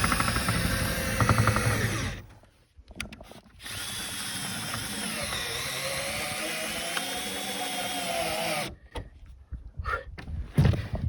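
Power drill driving roofing screws through sandwich roof panels. It opens with about two seconds of rapid rattling, goes quiet with a few clicks, then runs steadily for about five seconds before stopping abruptly. Scattered clicks and knocks follow near the end.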